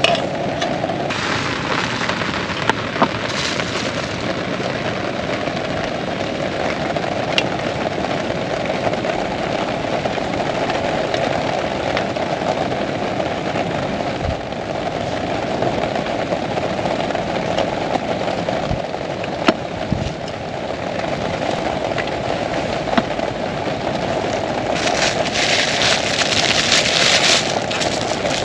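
Heavy rain falling steadily, with scattered sharp taps of single drops; the hiss grows louder and brighter near the end.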